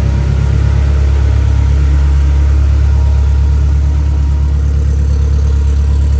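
Honda S2000 engine idling steadily, still running after a cold start, with a slight rise in level at the start.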